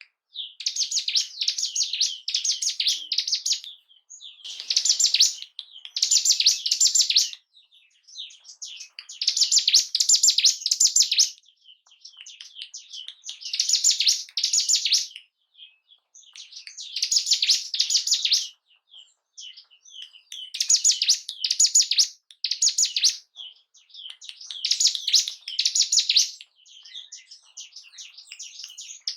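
Ciblek gunung (a mountain prinia) singing in repeated bouts of rapid, high chirping trills, each a second or two long with short pauses between, used as lure song to excite other ciblek.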